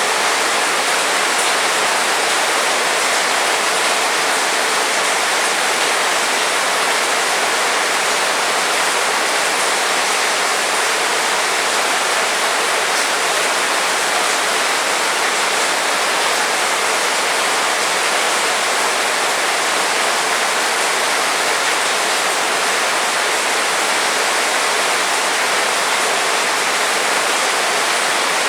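Heavy rain falling steadily, a dense, even hiss with no breaks or thunder.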